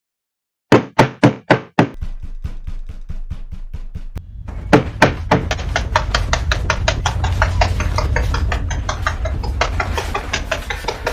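Knocking on a door, four sharp knocks, then a low bass drone comes in under it and the knocks speed up into a quick, dense rhythm, edited into a building musical beat.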